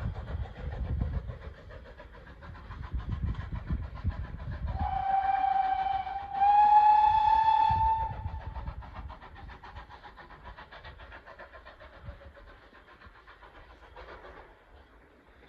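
A train whistle sounds for about three seconds, one pitch that steps up slightly partway through, over the low rumble of a train. Afterwards a faint, regular clicking of wheels on the rails fades away.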